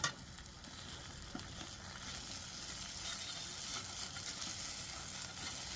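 Buttermilk pancakes sizzling in butter in a hot pan: a steady high hiss that grows a little louder about two seconds in, with a short click at the start.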